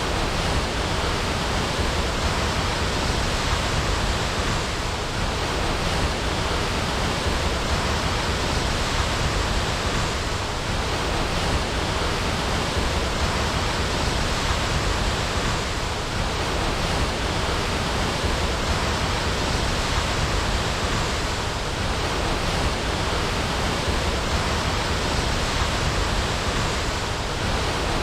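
Waterfall, falling water rushing in a loud, steady, unbroken wash of noise.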